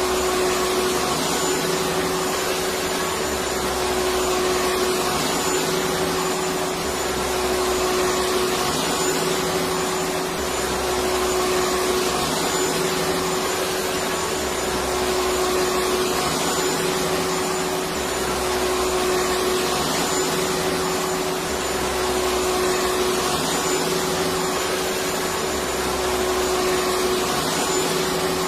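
Electric vacuum cleaner running steadily: an even whooshing hiss with a constant motor whine, over a low hum that swells and fades about every two seconds.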